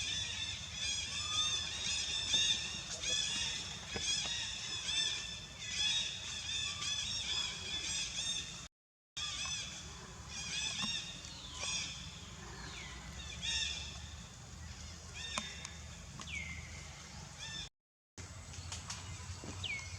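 High-pitched animal calls: many short arched chirps repeating rapidly and overlapping, with a few longer falling squeals in the second half. The sound cuts out completely twice for a moment.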